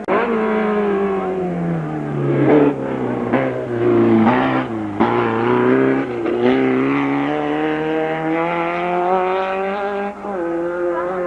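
Race car engine working hard: the revs drop over the first few seconds, broken by several short jumps as it slows and shifts down. It then pulls back up steadily, with a gear change near the end.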